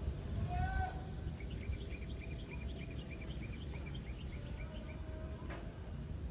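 A bird calling a quick run of short, high chirps, about five a second, over a steady low background rumble.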